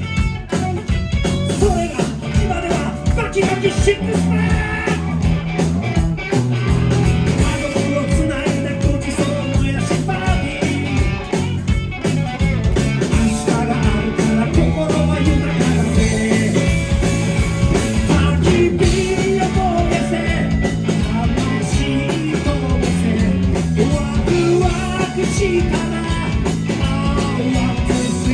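A rock band playing live, with a steady drum beat under the full band.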